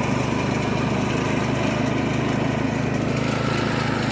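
Riding lawn mower's engine running steadily at an even speed, with a fast, regular firing beat.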